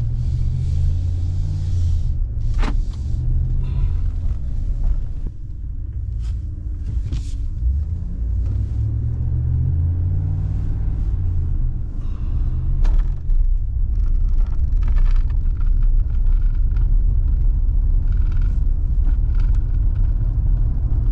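Pickup truck driving, heard from inside the cab: steady engine and road rumble, the engine note rising and falling with speed. A few brief sharp clicks cut through.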